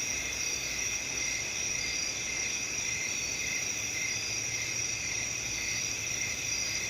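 A steady night chorus of crickets and other insects, several high chirring pitches layered and continuous.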